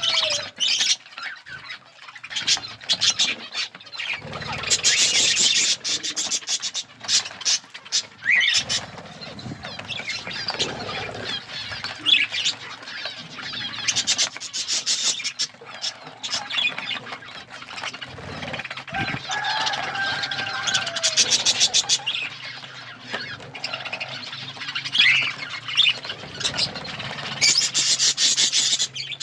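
Budgerigars chattering: rapid scratchy warbling mixed with short high chirps and squeaky calls.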